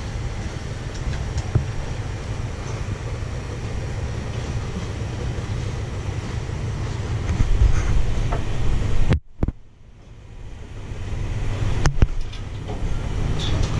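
Alsthom diesel-electric locomotive engine running with a steady low rumble. It cuts off suddenly about nine seconds in and builds back up after about a second, with a single sharp knock a couple of seconds later.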